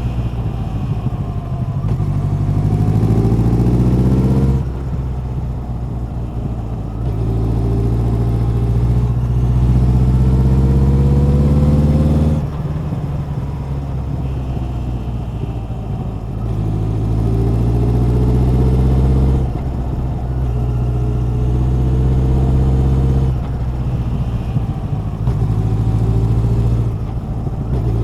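Honda CB1100's air-cooled inline-four engine and exhaust under way. It pulls up through the revs with a steadily rising pitch, then the throttle closes and the revs and loudness drop suddenly, repeated about four times.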